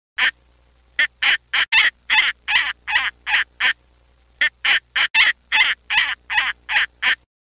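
Peregrine falcon giving its harsh, rapid kak-kak alarm cackle: one call, then two runs of about ten calls each, three or four a second, with a short break between them.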